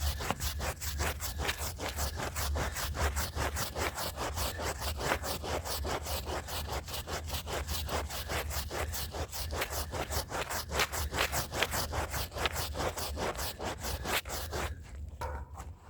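Stiff hand brush scrubbing a rug's fibres in fast back-and-forth strokes, several a second. Near the end the strokes slow and grow softer.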